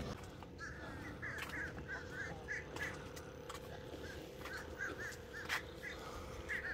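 Birds calling: short, arched calls in quick clusters of two or three, repeated every half second to second, over a faint steady hum. A sharp click about five and a half seconds in.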